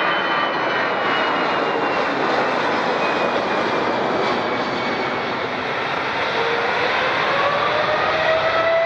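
Jet airliner engines running loudly with a steady rushing noise and whining tones. The whine falls in pitch over the first few seconds, and a new whine rises in pitch from about six seconds in.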